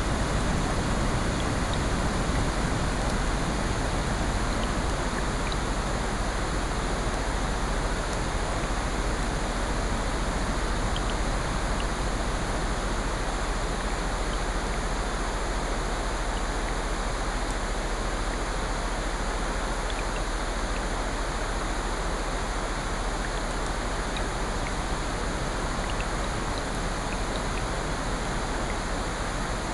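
Steady layered ambience of heavy rain and ocean surf, an even rushing hiss, with a few faint scattered crackles from a fireplace.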